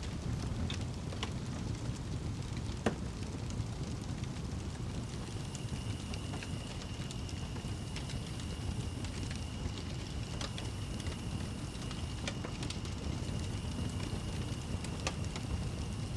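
Fireplace fire burning with a steady low rumble and scattered sharp crackles and pops. A faint, steady high whistling tone joins about five seconds in.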